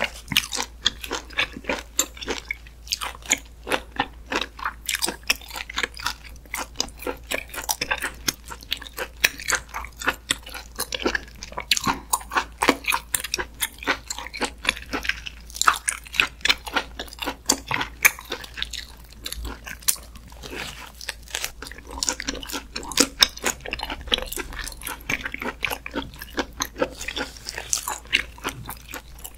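Close-miked chewing of raw muscovy duck meat, a steady run of many quick mouth clicks and smacks.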